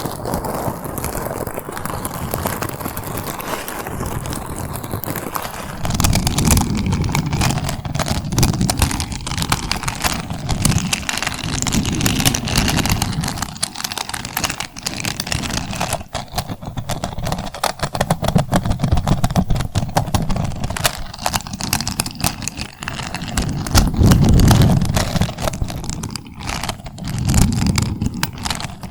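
Close-miked ASMR trigger sounds: dense, rapid crackling clicks, with low swells every few seconds.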